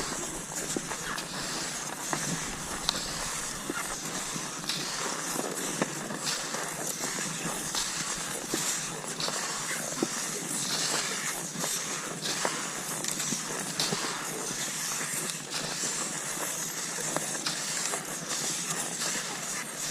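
Cross-country skis sliding over snow: a steady hiss with many small clicks and crunches scattered through it.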